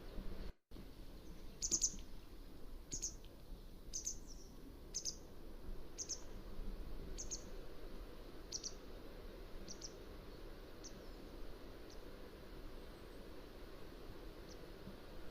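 Mountain wagtail calling: a series of short, high, sharp notes about one a second, loud at first and growing fainter, over a steady background hiss.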